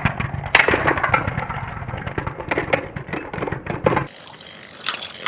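A Beyblade spinning top whirring and rattling against the plastic stadium floor, cutting off abruptly about four seconds in, followed by a few light plastic clicks.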